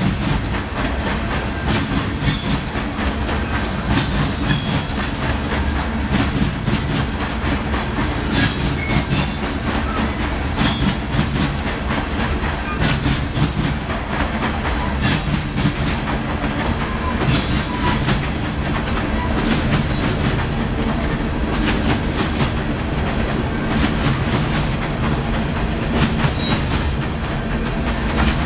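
Long CSX freight train rolling past close by: a steady rumble of railcars, with the wheels clicking and clacking over rail joints every second or so.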